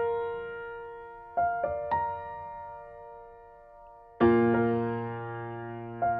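Slow, soft solo piano music: a few single notes, then a fuller chord with a low bass note about four seconds in, left to ring and die away.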